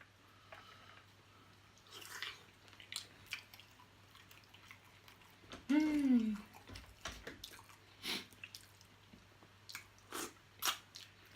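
Close-miked eating of a spicy seafood boil: scattered wet chewing and lip smacks, with a short falling hum of enjoyment about six seconds in.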